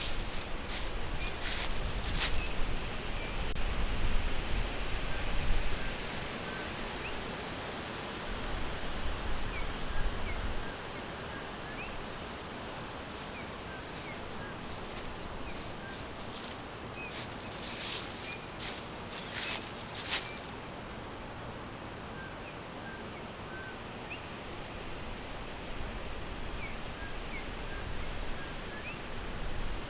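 Forest ambience: a steady hiss of wind and leaves with many faint, short bird chirps scattered throughout. Bursts of rustling come at the start and again about two-thirds of the way through, and a low wind rumble runs through the first third.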